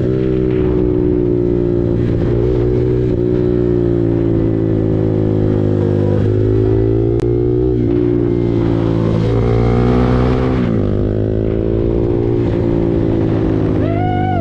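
KTM RC 390's single-cylinder engine through an SC Project aftermarket exhaust, running under way while riding, its pitch dipping and climbing again a few times as the revs change. Wind noise on the microphone swells for a couple of seconds in the second half.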